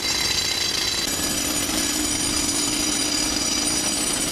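Heavy machinery running: a steady, loud mechanical noise with a high whine over it. A lower hum grows stronger about a second in.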